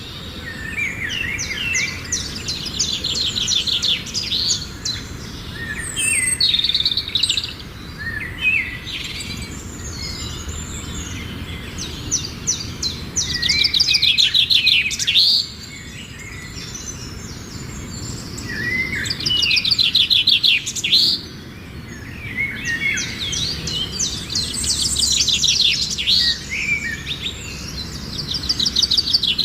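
A chorus of many birds chirping and calling at once, with rapid trills and short chirps overlapping continuously, swelling loudest twice in the middle with brief lulls after each.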